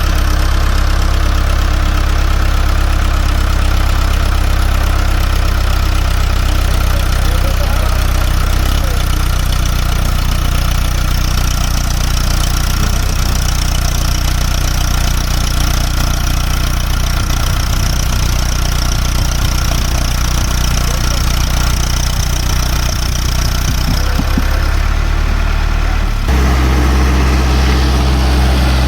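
Tractor engine running steadily at a low, even note, its pitch and load shifting a few times: about a third of the way in and twice near the end.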